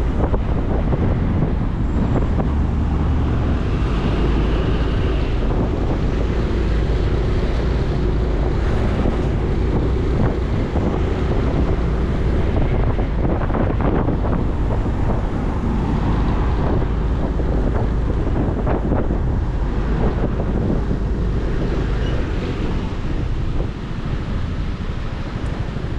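Wind rushing over the microphone of a motorcycle underway, with the engine running underneath; the wind noise eases a little near the end.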